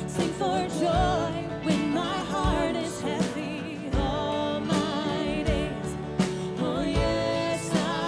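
Live worship band playing a slow song with a steady drum beat and a singing voice over it.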